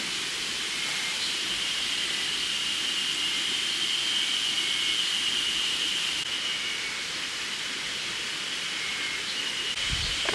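Spring cicadas calling in chorus: a steady high hiss with a sustained buzzing tone.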